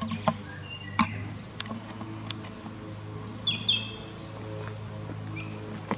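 Two quick high bird chirps about three and a half seconds in, over a steady low hum and a few sharp clicks.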